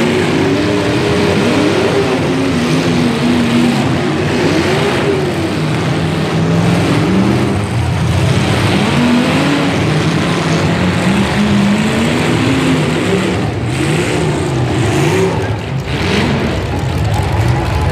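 Several demolition derby cars' engines revving at once, their pitches rising and falling over one another.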